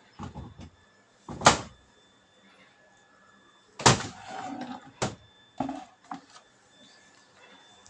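A series of short knocks and thuds from handling the washing machine and the water container as water is put into it by hand: two loud ones, about a second and a half and about four seconds in, then a few lighter knocks.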